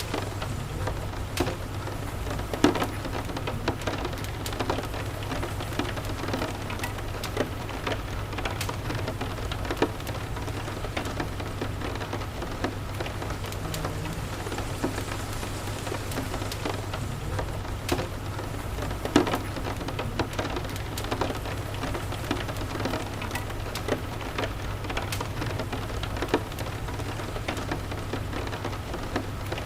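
Steady rain falling, with scattered sharp ticks and pops throughout over a constant low rumble.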